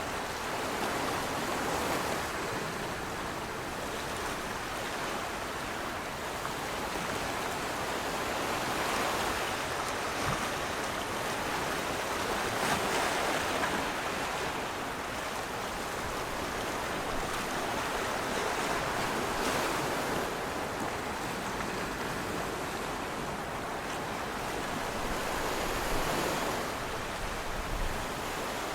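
Steady rush of water, with no clicks or tones, swelling and easing every several seconds.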